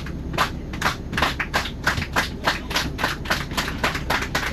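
A rapid, irregular run of sharp taps, about four or five a second, over a steady low rumble.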